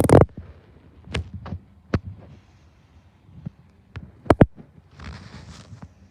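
A series of dull thumps and knocks, the loudest right at the start and a quick double knock past the four-second mark, with a short hiss about five seconds in.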